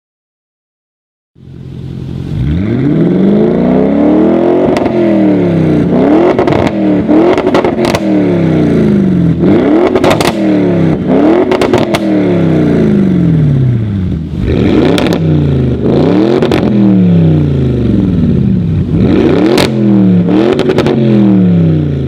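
Audi RS7's twin-turbo 4.0 TFSI V8 through an aftermarket iPe exhaust, blipped again and again in quick free revs, each rising then falling. Sharp cracks pop out as the revs drop. It starts after a second or so of silence.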